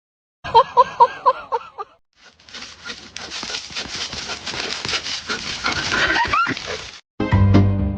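A dog whimpering in about five short, high cries in quick succession, followed by several seconds of noisy, unpitched sound.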